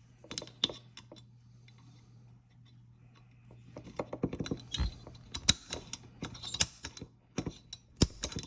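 Clicks and taps of small metal parts being handled and fitted into an AR-15 lower receiver while a bolt catch is installed. The clicks are scattered at first and come thicker in the second half, with a couple of sharper knocks about five and eight seconds in.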